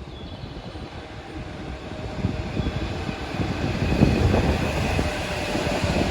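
A train approaching on the line, its rumble building steadily, with strong wind buffeting the microphone.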